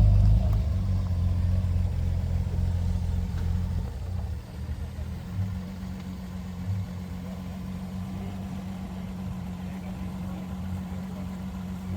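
Car engine running at low revs, loud at first and easing off over the first four seconds, then settling into a steady quieter idle.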